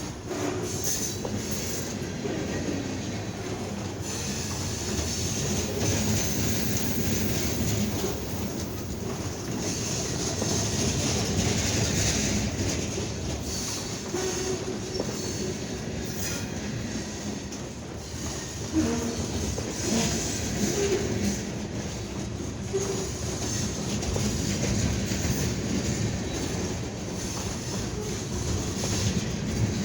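Freight train cars rolling past, a steady rumble of steel wheels on rail with scattered clicks.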